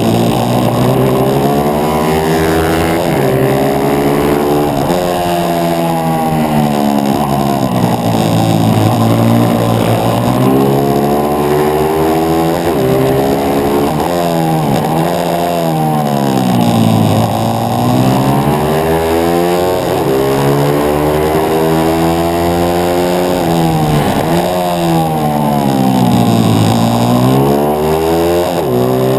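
A 140 cc pitbike's single-cylinder four-stroke engine at race pace, heard on board. Its pitch climbs up through the gears and drops away again, over and over, as the bike brakes into corners and accelerates out.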